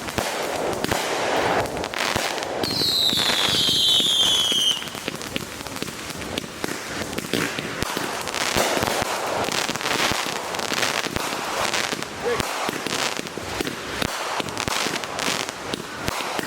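Consumer fireworks going off in quick succession: many sharp bangs and crackles, louder in the first few seconds. A few seconds in, one whistle falls in pitch for about two seconds.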